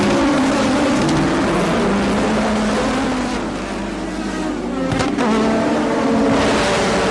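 1984 Formula One cars running at race pace, several engine notes rising and falling together. One car sweeps past about five seconds in.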